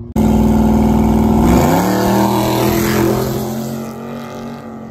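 Car engine held at high revs at the line. About a second and a half in the pitch drops and then holds steady while the sound slowly fades.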